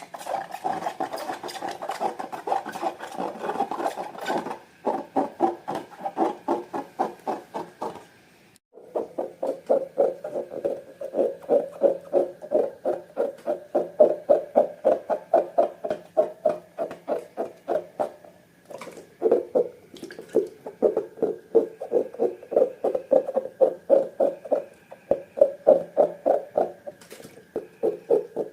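Slime being squeezed and kneaded by hand, giving a steady rhythm of squelching squishes at about two to three a second, with a couple of brief breaks.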